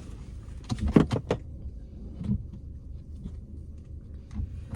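A cluster of sharp clicks and knocks about a second in, with a few lighter clicks later, over the steady low rumble of the car.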